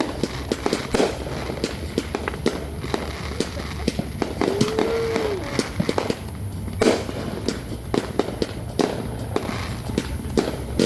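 Fireworks bursting overhead in quick, irregular succession: many sharp bangs and crackles. A brief rising-then-falling tone is heard about four seconds in.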